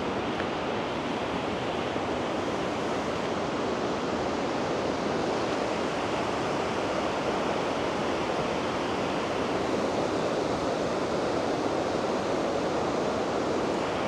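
Steady rushing of a nearby waterfall, an even roar of falling water that does not change.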